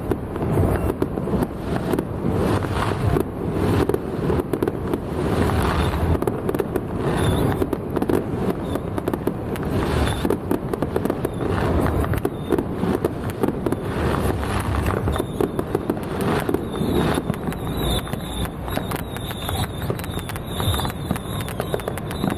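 Fireworks and firecrackers going off in a dense, continuous run of rapid cracks and pops.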